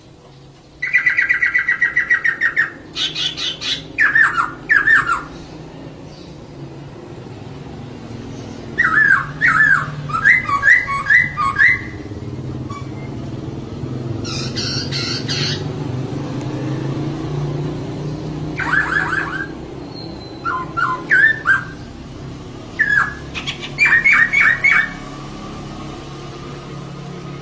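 Female poksay (laughingthrush) calling in a series of bursts of rapid, repeated chattering notes, about six phrases separated by short pauses, over a low steady hum.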